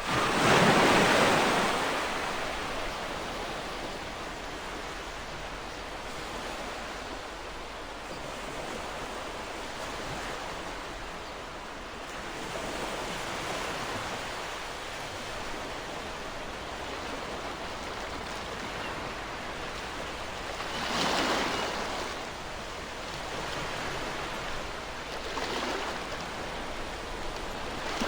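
Ocean waves breaking on a shore, a steady wash of surf with a loud wave crashing about a second in and smaller waves breaking later on.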